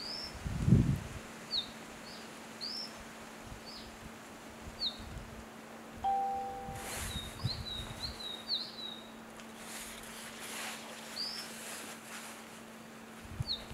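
A small bird calling: short, high chirps, some singly and some in quick runs of several. A low thump comes just under a second in, and a brief low tone about six seconds in.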